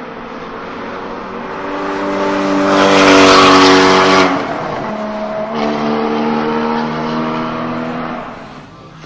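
Porsche Cayman GT4's flat-six running through a Fabspeed Valvetronic exhaust under load, its note building to a loud peak, cutting off sharply about four seconds in, then picking up again at a steady pitch and fading away near the end.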